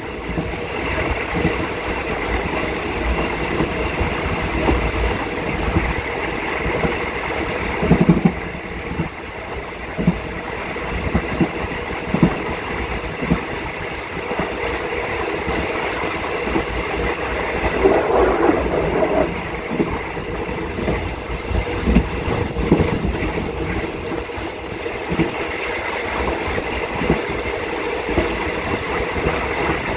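A passenger train running along the track, heard from inside its rear carriage: a steady rumble of wheels on rails with irregular knocks and clatter.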